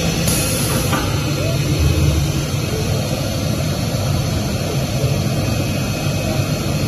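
Digital CNC fabric cutting machine running, its vacuum table blower giving a steady, loud whir with a low hum.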